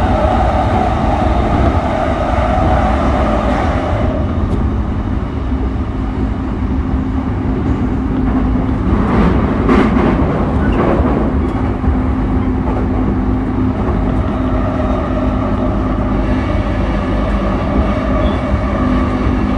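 JR East E233 series electric train running on the Keihin-Tohoku Line: steady rumble of wheels on rail with a constant motor hum. A higher tone from the drive fades out about four seconds in and comes back about fourteen seconds in, and a louder noisy rush passes around the middle.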